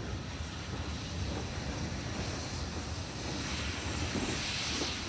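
Steady rumble of a moving steam-hauled passenger train, heard from an open carriage window with wind buffeting the microphone. A hiss grows louder in the second half.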